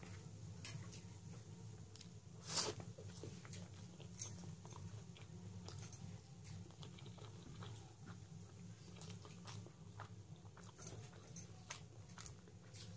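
A person eating rice and egg by hand, with chewing, biting and wet mouth sounds and fingers working rice on a plate, as a run of short clicks, the loudest about 2.5 and 4 seconds in. A steady low hum sits underneath.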